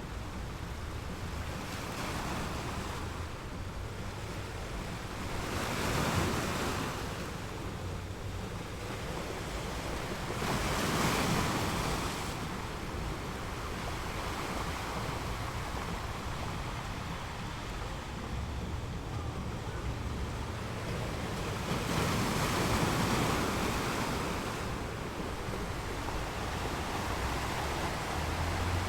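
Sea waves washing steadily, with three louder swells as waves break.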